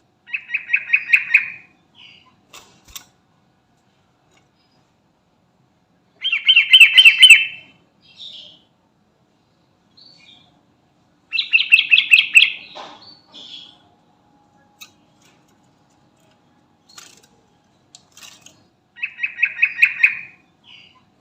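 Yellow-vented bulbul (trucukan) singing four short, fast bubbling phrases, each about a second and a half long, with pauses of several seconds between them.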